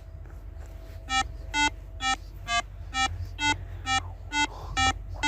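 Synthesizer music: a short electronic note repeating evenly about twice a second, starting about a second in, over a faint steady tone.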